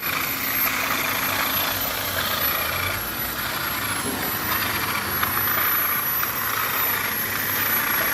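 A steady machine running noise with a thin high-pitched whine above it and a few faint ticks.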